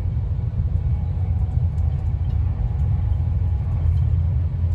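Steady low rumble of a passenger train running at speed, heard from inside the carriage, with a faint steady hum above it.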